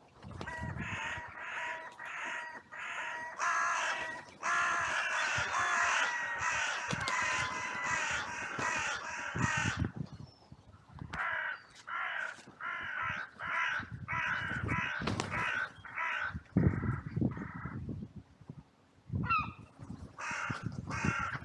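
Several crows cawing in runs of short, evenly repeated caws, overlapping into a dense chorus for the first half, then after a brief lull calling again in shorter series.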